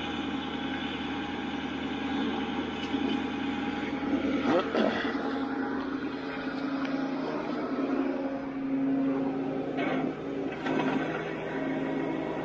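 Ford F450 recovery truck running with its hydraulic winch drawing the cable taut: a steady mechanical hum with a few short knocks, one about four and a half seconds in and another near ten seconds.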